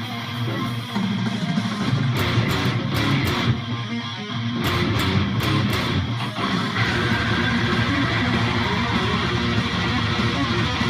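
High-gain distorted electric guitar played through a Hughes & Kettner GrandMeister 40 Deluxe amp in a metal riff. Choppy, stop-start hits in the first half, then a denser continuous run from about seven seconds in.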